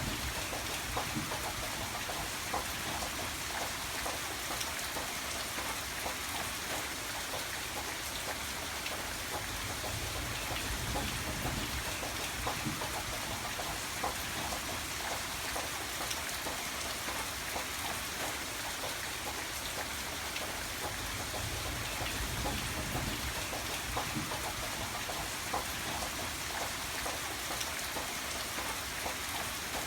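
Steady rain falling, with many individual drops ticking on a surface. A low rumble swells briefly about ten seconds in and again a little past twenty seconds.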